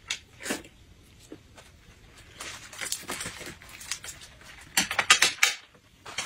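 Close-up eating sounds of someone chewing soft braised pork belly: scattered wet mouth clicks and smacks, with a quicker run of clicks about five seconds in.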